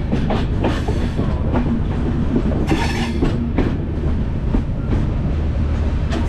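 Konkan Kanya Express passenger train rolling along, heard from an open coach doorway: a steady low rumble with irregular clacks of the wheels over the rails, and a short hiss about three seconds in.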